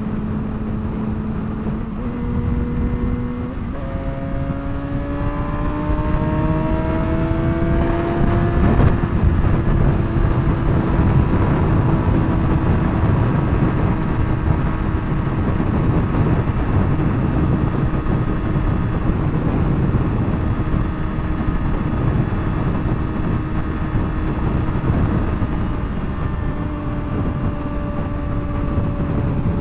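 Straight-piped 2007 Suzuki GSX-R600 inline-four running on the highway under wind rush. Its pitch steps up twice in the first few seconds, then climbs steadily for about five seconds as the bike accelerates, and then holds at a steady cruise.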